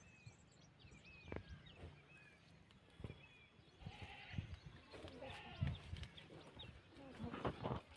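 Faint animal calls with short, high, falling chirps and a few sharp knocks.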